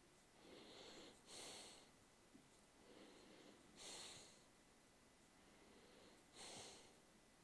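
Faint breathing close to the microphone, with a soft breath coming about every two and a half seconds.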